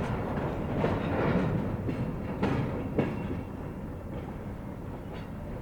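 Freight train cars rolling on the rails, wheels clicking over rail joints, with a few sharp knocks; the sound eases off after about three seconds.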